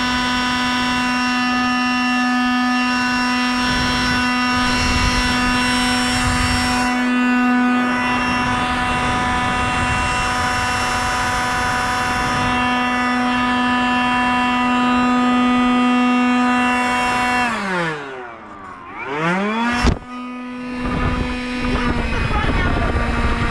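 Electric blower motor running at a steady high whine, then spinning down about three-quarters of the way in and, after a sharp click, spinning back up to speed.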